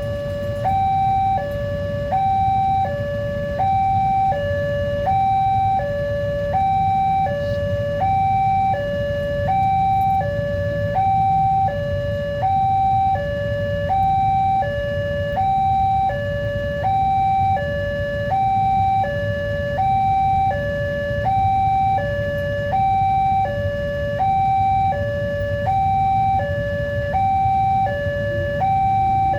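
Railway level crossing warning alarm sounding its two-tone electronic signal: a higher and a lower tone alternating evenly, each held about a second, without a break. It is the signal that a train is approaching and the barriers are closing or closed.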